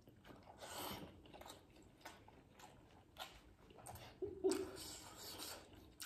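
Close mouth sounds of people biting and chewing steamed chicken momos (dumplings): irregular wet smacks and chews. A short hummed "mm" comes about four seconds in.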